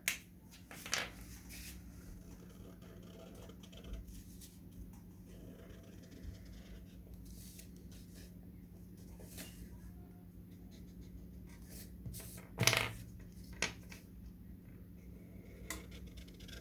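Felt-tip marker drawing on paper: a scatter of short strokes and paper handling over a faint steady hum. The loudest stroke comes about three-quarters of the way through.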